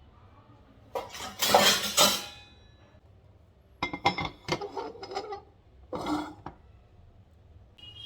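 Dishes and cutlery clattering and clinking: a loud clatter about a second in, then a quick run of clinks and knocks, and a shorter clatter near the end.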